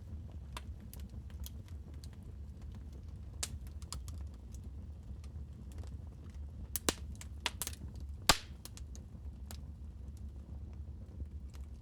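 Fireplace wood fire crackling: scattered small pops and clicks over a steady low rumble, with a few louder snaps near the middle.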